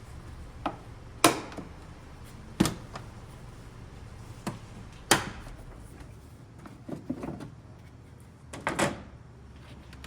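Plastic air filter housing on a 2006 Hummer H3 being opened by hand: a series of sharp clicks and knocks as the latch clips are unsnapped and the lid is moved, with a longer scraping rustle near the end as the filter is handled.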